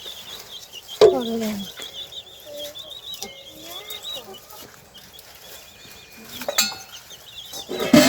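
Farmyard animals calling, with a loud call about a second in that falls in pitch, over a steady high warbling trill.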